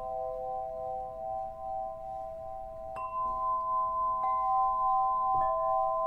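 A crystal sound-healing instrument is struck repeatedly, about once a second from halfway on. Several pure tones ring on together and overlap, one of them pulsing slowly.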